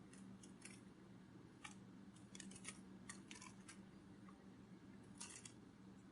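Near silence: faint, irregular soft clicks, some in quick clusters, over a low steady hum.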